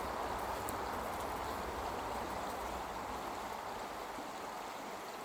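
River water running: a steady rushing that slowly grows fainter.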